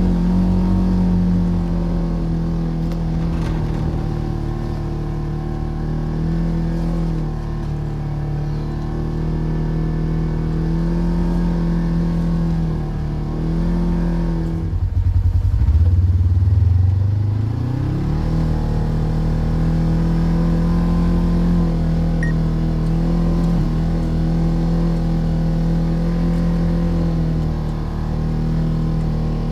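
Polaris RZR Trail side-by-side's engine running at a steady pace as it is driven through deep snow. About halfway through, the revs drop away sharply, then climb back up over a couple of seconds to the same steady note.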